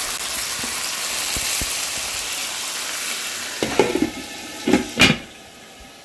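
Marinated chicken sizzling in a nonstick pan on high heat, stirred with a silicone spatula. Near the end a glass lid knocks onto the pan a few times, and the sizzle then drops to a quieter, muffled hiss under the lid.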